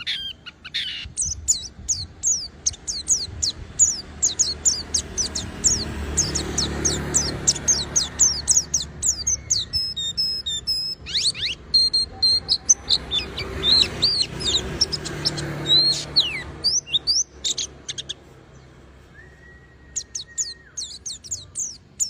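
White-eye (pleci) singing: a fast, continuous run of thin, high, falling chirps, several a second, with a short break near the end before the song resumes.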